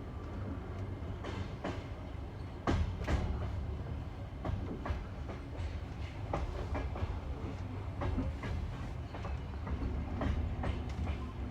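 Passenger train's wheels clicking over the rail joints of jointed (bolted) track: pairs of sharp knocks every couple of seconds over a steady low rumble, heard from inside the carriage.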